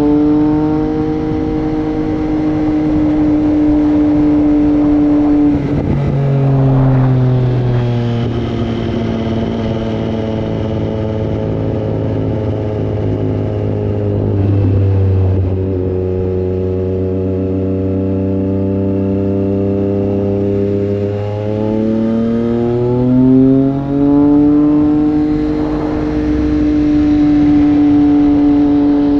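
Triumph Street Triple 765 RS inline-three engine with a Racefit Growler full exhaust, running under way at steady revs. The engine note drops about six seconds in and sinks lower for a while, then climbs back up again about twenty-two seconds in and holds.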